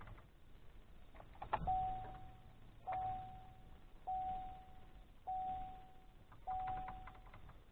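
Vehicle warning chime dinging five times at an even pace, about once every second and a bit, each ding a single steady tone that fades out. A click comes just before the first ding.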